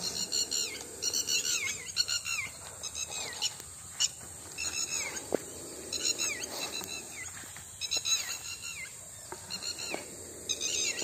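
Songbird singing: short phrases of quick high chirps, each ending in a falling note, repeated every second or two. A few sharp taps sound in the middle.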